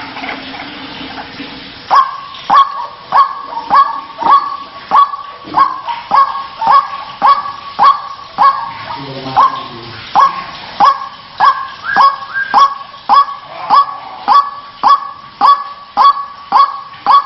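White-breasted waterhen (ruak-ruak) calling: a long, even series of harsh 'kruak' notes, about one and a half a second, starting about two seconds in.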